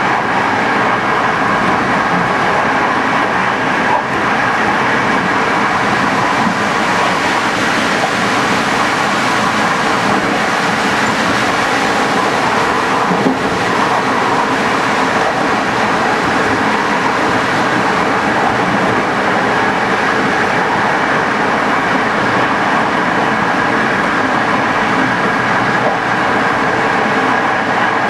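Locomotive-hauled passenger train running steadily along the line, heard from aboard: a continuous rumble and rail noise with a steady high whine, unchanging throughout.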